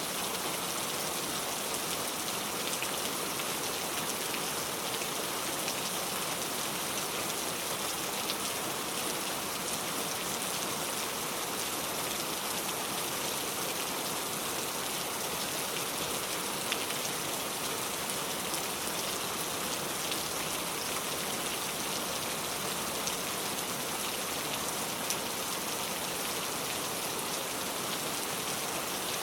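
Steady rain falling, a dense even patter of drops with a few sharper single drop hits here and there.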